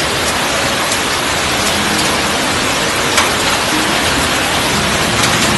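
Heavy rain pouring down in a steady loud hiss, with a few sharp ticks of drops striking close by.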